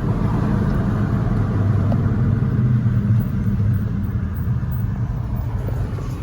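Car engine and exhaust running with a steady low rumble that swells in at the start and holds, easing off slightly near the end.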